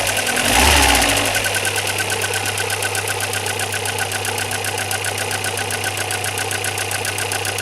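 Alfa Romeo 146 Twin Spark four-cylinder engine revved briefly about a second in, then idling with a fast, regular ticking: a strange noise whose cause is not known.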